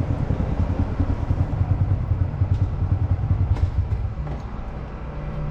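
Small single-cylinder motorcycle engine with a low, pulsing running note. About four seconds in it drops to a quieter, steadier idle.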